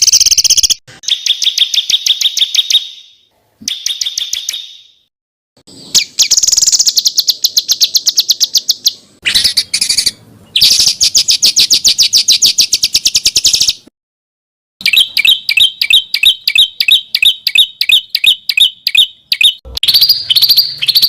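Small songbirds' harsh, rapid trills and chattering phrases, in separate bursts with short silent gaps between them. Later comes a faster run of evenly repeated sharp notes, about six a second.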